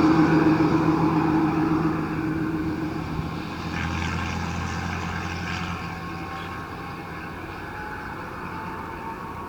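Jet engine noise from an Airbus A380 at takeoff power: a steady rumble that fades as the aircraft moves away. A faint, slowly rising whine comes in during the second half.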